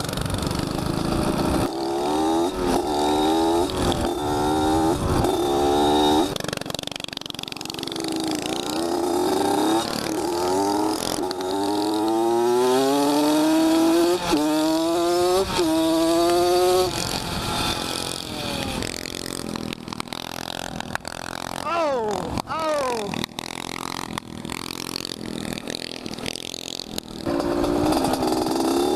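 Small motorcycle engine revving up and shifting through the gears again and again, the pitch climbing and dropping back with each shift. It eases off through the middle, with a few quick falling sweeps, and picks up again near the end.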